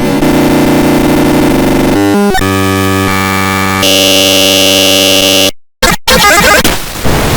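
Loud, heavily distorted electronic tones: held buzzy chords that jump to new pitches every second or two, cut out briefly about five and a half seconds in, then return as harsher noise.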